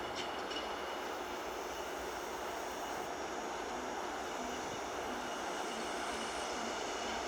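Small freight train hauled by a ChME3T diesel shunting locomotive, rolling along the track with a steady noise and faint high tones over it.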